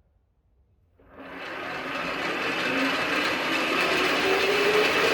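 Creworks 8x16 mini lathe starting up about a second in: its motor and spindle gearing spin up over a couple of seconds, then run steadily with a whine that rises slightly as the speed is turned up.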